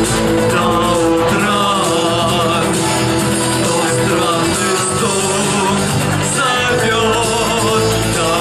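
A male singer singing a pop song over a full instrumental backing track.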